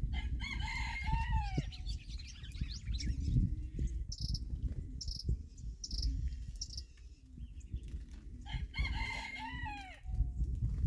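A rooster crowing twice, each crow about a second and a half long, one at the start and one near the end. Between the crows a small bird gives four or five short high chirps. A steady low rumble runs underneath.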